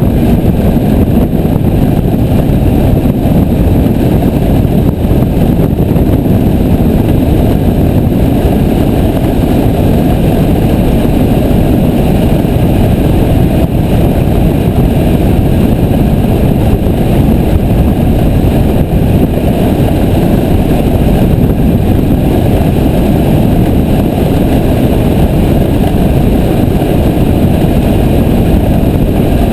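Piper J3 Cub's engine and propeller running steadily, a dense, unchanging roar heard from on board the aircraft.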